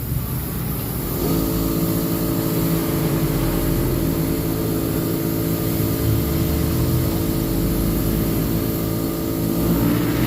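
Steady motor hum; a second, higher steady motor tone starts abruptly about a second in and runs on evenly.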